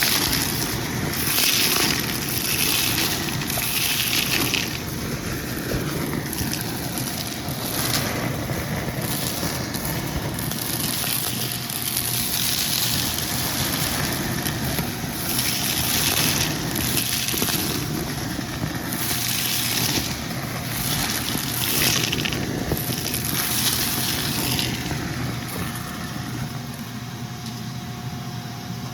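Vacuum cleaner running and sucking up crunchy debris, with a steady motor tone under a crackling hiss that surges again and again as it passes over the debris.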